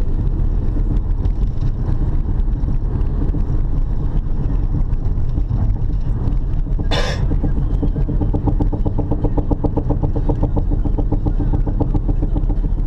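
Honda Odyssey being driven, heard inside the cabin: steady road noise with a fast, regular knocking from the left rear wheel. It grows plain in the second half, and there is a brief sharp sound about halfway through. The clunking comes from loose wheel nuts.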